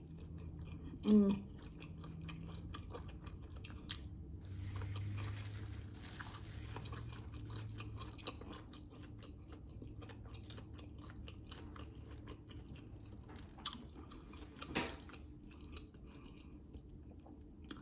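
Close-up chewing of a sausage dog topped with grinder salad, with many small wet clicks and an occasional crunch. A short hum of a voice about a second in.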